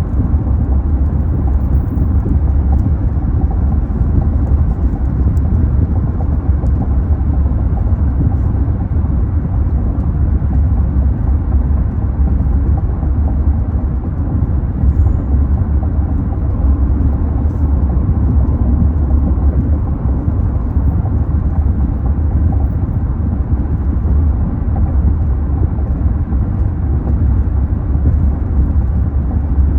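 Steady, loud low rumbling noise, strongest in the deep bass, with no clear tone, rhythm or sudden event.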